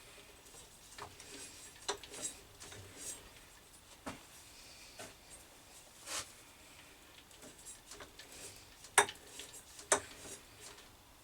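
Scattered sharp metal clicks and short scrapes from cutting a thread by hand with a die on a brass rod, at irregular intervals of about a second, with two louder clicks near the end.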